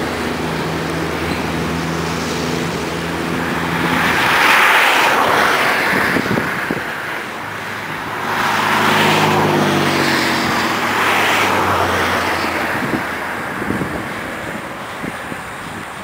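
Engine noise from passing machines: a steady low hum with several pitched tones, then two loud rushing swells that build and fade, peaking about four and nine seconds in.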